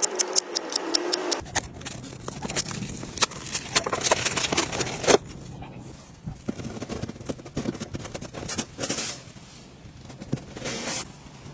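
Irregular knocks, taps and short scraping strokes of hand tools working on a plaster wall repair.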